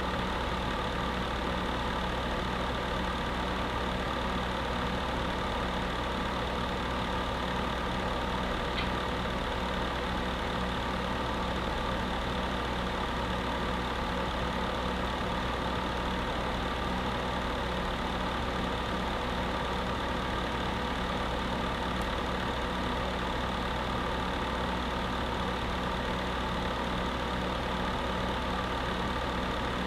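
Electric space heater running steadily: a constant fan-motor hum under an even whirring hiss, with no change in pitch or level.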